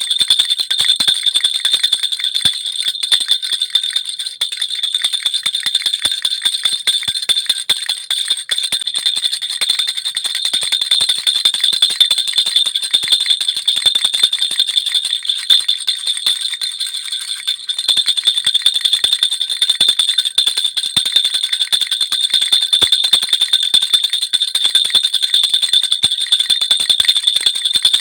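Baby rattle (jhunjhuna) with small bells shaken continuously in a fast, even jingle, its bells ringing high and steady.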